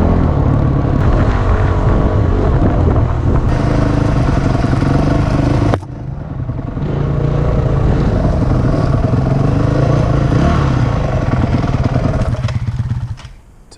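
Honda CRF250X dirt bike's single-cylinder four-stroke engine running as the bike rides up a trail. The sound breaks off sharply about six seconds in, picks up again, and fades near the end.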